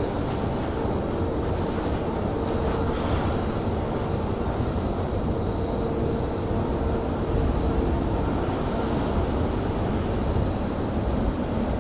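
Railyard ambience in winter: a steady low rumble with a faint constant high whine over it, and a brief rapid run of high chirps about six seconds in.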